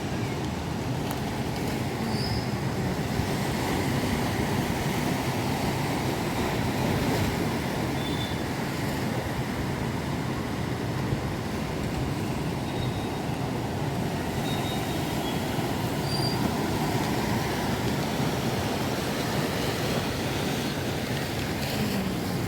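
Monsoon sea surf and strong wind making a steady, dense rush of noise, with wind buffeting the microphone.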